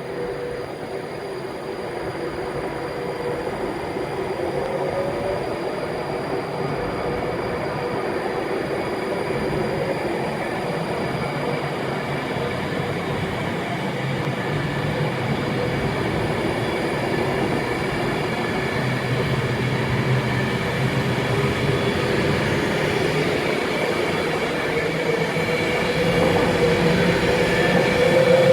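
Train running on the line: a steady rumble with a humming tone that slowly gets louder, the hum rising in pitch near the end.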